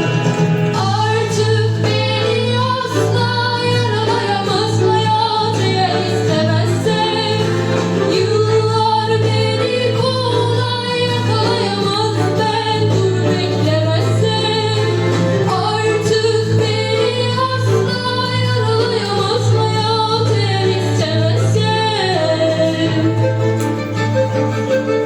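Female solo voice singing a Turkish song over an instrumental accompaniment with a steady low bass note.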